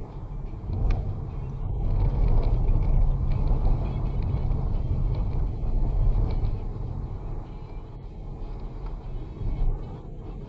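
Vehicle engine running on the move with wind rushing over the microphone: a steady low rumble that swells louder for a few seconds in the middle.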